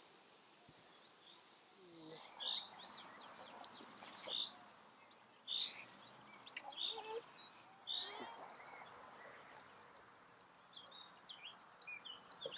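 Birds chirping: short high calls repeating every second or so, over a faint steady outdoor background.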